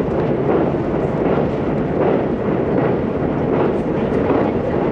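E257 series electric limited express running at speed across a steel truss bridge, heard from inside the passenger car as a steady, loud rumble.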